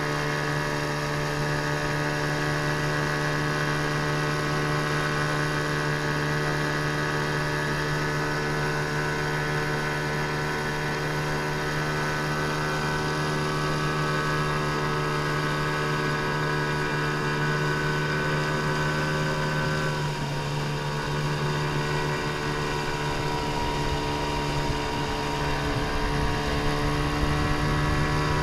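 15 hp outboard motor running steadily, a constant engine drone that dips briefly in pitch about two-thirds of the way through.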